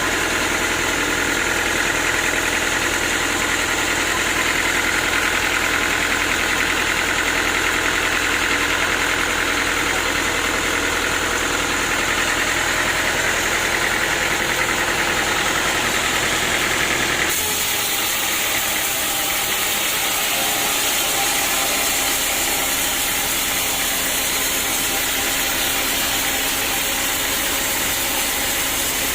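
Sawmill engine running steadily. About 17 seconds in the sound changes abruptly: the low hum drops away and a brighter, hissing machine noise takes over.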